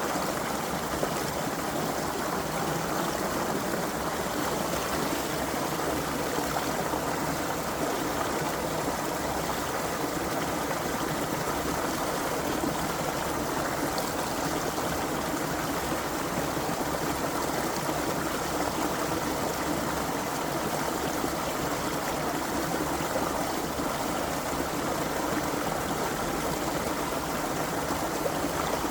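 Creek water flowing and trickling over stones in a steady, even rush.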